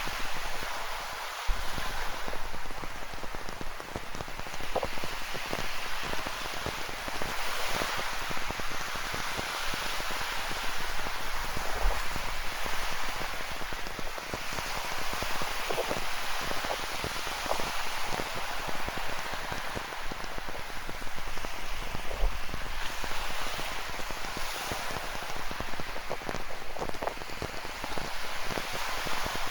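Rain falling, with many close raindrops ticking, over the steady wash of ocean surf that swells and eases every few seconds.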